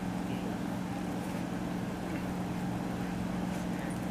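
Steady low engine drone with an even hum that does not change.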